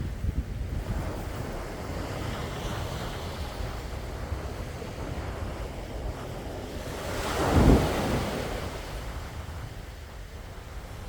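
Sea waves washing ashore, one wave swelling and breaking about two-thirds of the way through, then fading. Wind rumbles on the microphone throughout.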